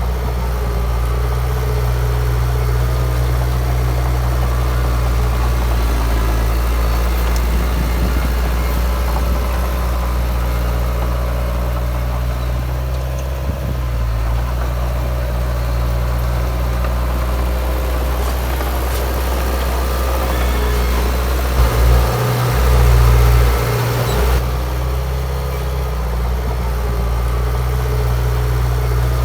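Heavy diesel engine of earthmoving machinery running steadily with a deep hum, with a brief louder surge about three-quarters of the way through.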